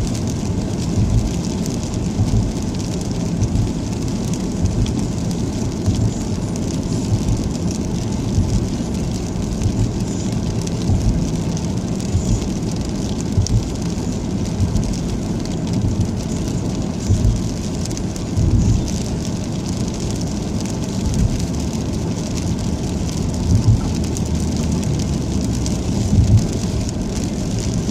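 Steady rain and tyre noise heard from inside a moving car, with a constant low rumble and occasional low thumps from the road.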